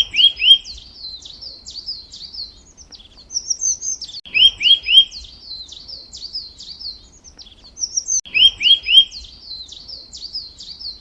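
A songbird singing the same phrase three times, about every four seconds: three quick rising whistles followed by a run of high falling notes.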